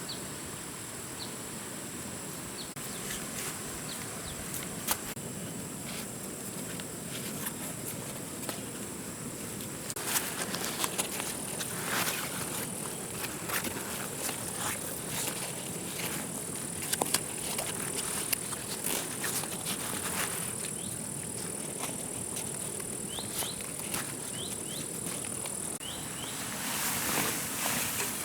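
Steady high-pitched insect drone, with scattered clicks and knocks from handling things. A few short high chirps come in near the start and again later.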